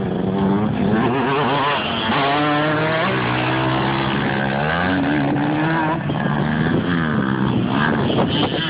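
Dirt bike engine running and revving: its pitch climbs over a few seconds, holds, then falls away about six seconds in.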